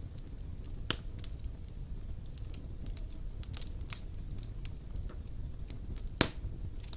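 Wood fire burning in a fireplace: a low rumble of flames under scattered crackles of burning logs, with a sharp pop about a second in and a louder one about six seconds in.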